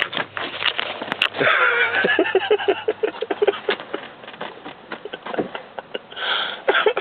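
Indistinct human voices with sniffing and breathing sounds, over clicks and rustling.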